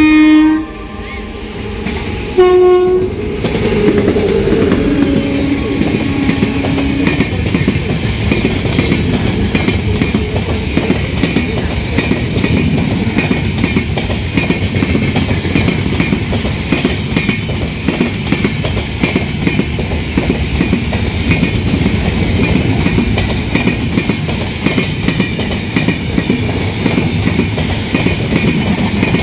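The Howrah–New Delhi Rajdhani Express's electric locomotive sounds its horn as it comes into view, once at the start and again briefly about two seconds later, and the pitch drops as it goes by. Then the train runs through the station at speed, with a steady loud rumble and wheel clatter as the coaches pass.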